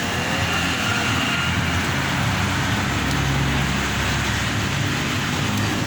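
Road traffic noise: a steady hiss of passing vehicles with a motor vehicle's engine humming, growing stronger about two seconds in.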